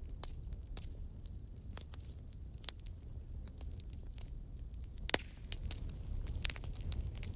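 Campfire crackling: irregular sharp pops and snaps of burning wood over a low steady rumble, with one louder pop followed by a short hiss about five seconds in.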